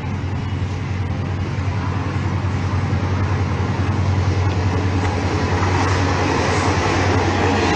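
Diesel locomotive hauling a passenger train approaching at speed: a steady low engine drone under rail and wheel noise that grows steadily louder as it nears.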